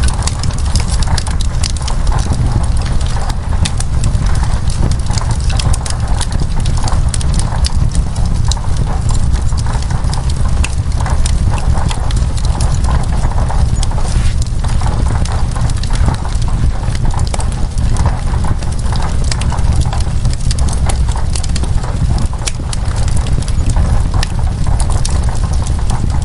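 Wood fire crackling in a fireplace: many irregular sharp pops and snaps over a steady low rumble, with a hiss of rain beneath.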